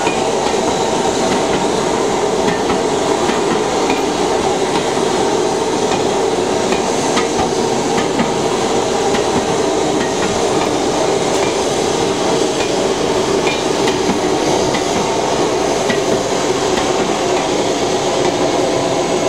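Train of passenger coaches rolling past at close range: a steady loud rumble of wheels on rail with irregular sharp clicks and knocks as the wheels pass over rail joints and points.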